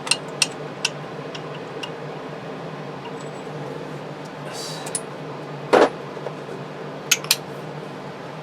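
Metal hand tools clinking against the engine: a few light clicks near the start, one louder knock a little before six seconds in, and two quick clicks near the end, over a steady low hum.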